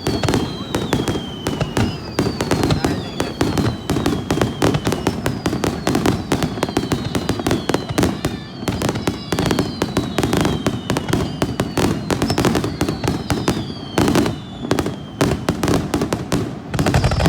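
A fireworks display: a dense run of bangs and crackling bursts, with repeated whistles that fall in pitch.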